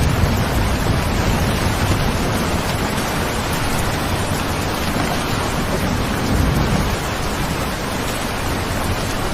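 Steady rain falling, with a low rumble swelling briefly about six seconds in.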